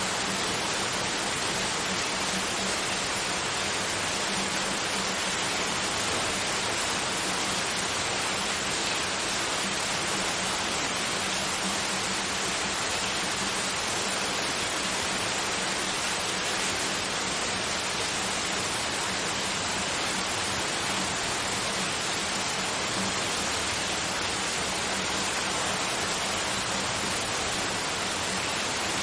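Continuous white noise: an even, unchanging hiss with a faint low hum beneath it.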